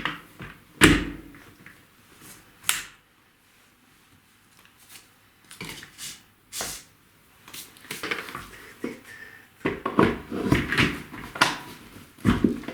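Hand work on office-chair parts: a few sharp knocks and clatters, then from about eight seconds in a run of irregular scraping strokes.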